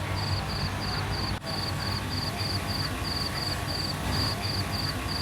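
Insect chirping in short, evenly spaced high-pitched pulses, about three a second, over a steady low hum.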